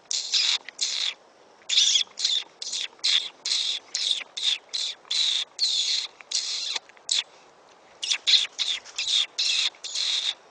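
Lip squeaks: rapid, high-pitched kissing squeaks close to the microphone, made to imitate a distressed mouse and draw a coyote back in. They come in three quick runs of short squeaks with brief pauses, one after about a second and another after about seven seconds.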